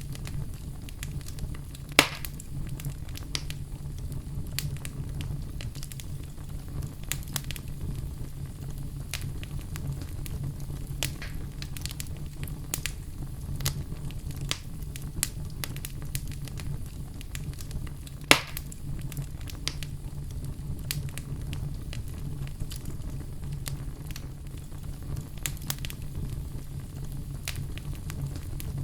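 Wood fire crackling steadily over a low rumble, with scattered small crackles and two louder pops, about two seconds in and past the middle.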